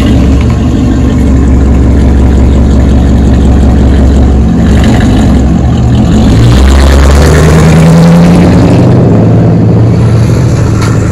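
Car engine and exhaust running loud and revving, climbing in pitch to its loudest about eight seconds in, then easing off.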